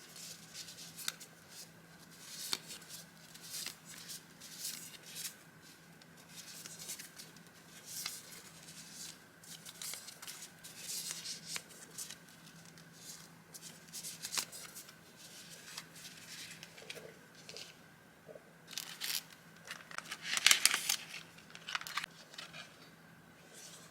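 Sheets of vintage journaling paper and stickers being handled: irregular rustling, sliding and crinkling of paper, with a louder flurry of rustles near the end.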